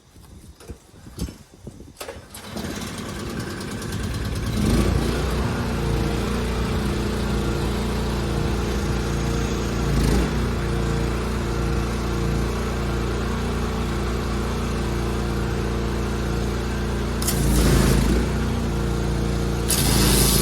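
Petrol pressure washer engine starting after a few knocks, then running steadily at working speed, with a few brief surges.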